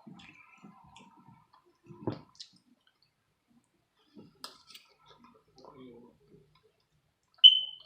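Close-miked eating: chewing and soft wet mouth sounds with scattered light clicks. Near the end comes one short high-pitched squeak, the loudest sound.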